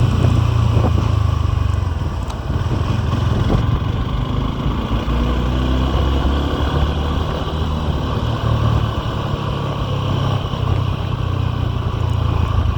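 Suzuki V-Strom SX 250's single-cylinder engine running under way, a low rumble whose pitch steps up and down a few times with the throttle and gears.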